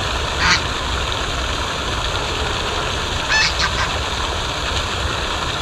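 Short bird calls: a brief one about half a second in and a longer, wavering one around three and a half seconds in, over a steady rushing noise with a low rumble.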